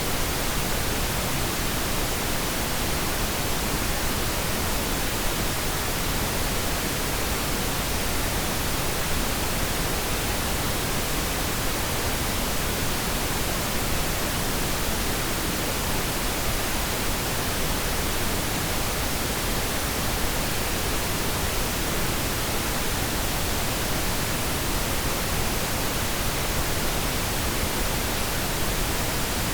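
Steady pink noise: an even, unchanging hiss spread across all pitches, a generated masking sound for tinnitus.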